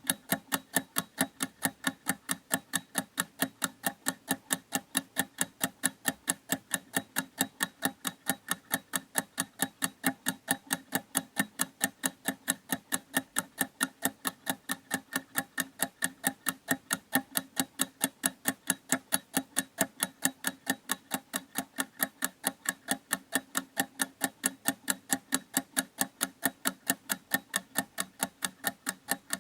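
Clock ticking steadily, about four sharp ticks a second.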